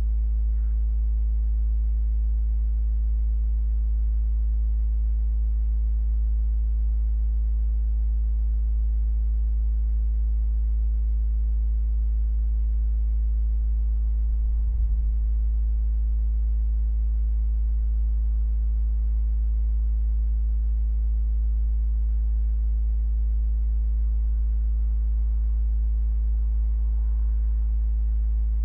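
Steady low electrical hum with a ladder of fainter overtones, unchanging throughout, with one brief faint thump about fifteen seconds in.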